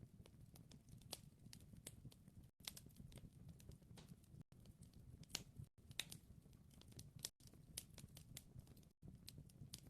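Faint wood fire crackling: irregular sharp pops and snaps over a soft low rumble, with brief drops to silence every second or two.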